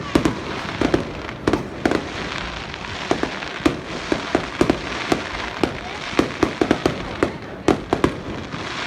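Fireworks display: sharp bangs going off in a rapid, uneven string, several a second, over continuous crackling and rumble.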